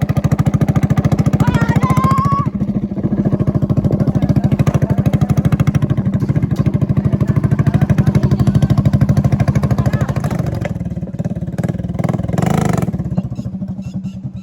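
Vehicle engine running steadily with a rapid, even pulsing, easing off near the end. A short rising whistle-like tone sounds about two seconds in.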